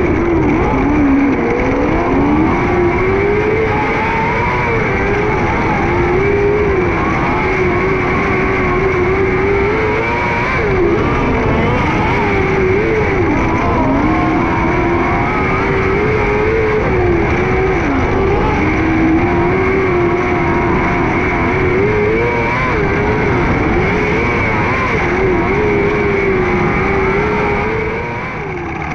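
600cc micro sprint car's motorcycle four-cylinder engine running hard at racing speed, its pitch climbing and dropping every few seconds as the throttle is opened and lifted around the track.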